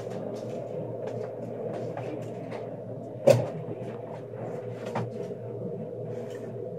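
Interior running noise of an SRT high-speed train, a steady low hum, as it slows to a stop at a station. Faint clicks and rattles sound throughout, with one sharp knock a little after three seconds in and a smaller one about two seconds later.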